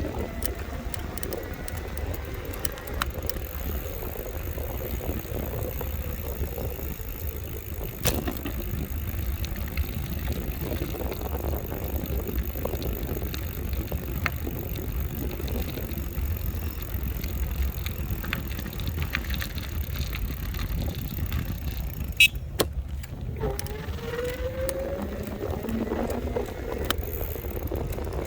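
Riding an electric bike: a steady low rumble of wind on the microphone and road noise, with a faint motor whine gliding in pitch at the start and again about 24 seconds in. A sharp click about 22 seconds in.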